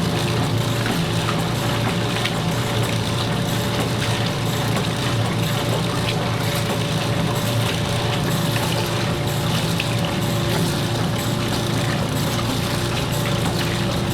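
A machine running steadily with a continuous, water-like rushing noise and a steady hum, played from a vinyl sound-effects record with light surface crackle.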